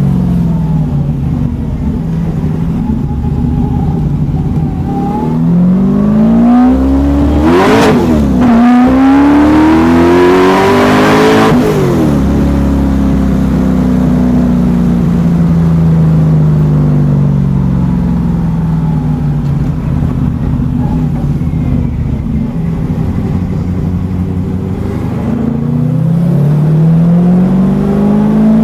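Fuel-injected 447 cubic-inch Ford Windsor V8 in a Mustang driving hard, its pitch climbing under acceleration and falling as it lets off, several times over. The busiest stretch, about eight to twelve seconds in, sounds like the car passing close.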